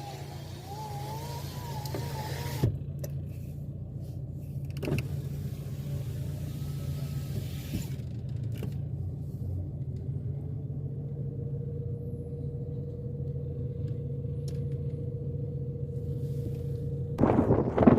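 Steady low drone of a motor vehicle running, with a faint steady whine joining about halfway through. About a second before the end, a sudden loud rush of wind noise on the microphone takes over.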